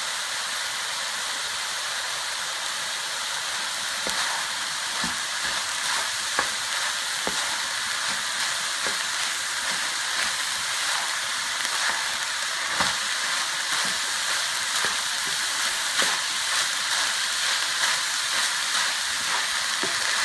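Ground beef, mushrooms and chopped onion sizzling steadily in a nonstick frying pan while the onions soften. From about four seconds in, a wooden spoon stirring the mixture adds light scrapes and taps.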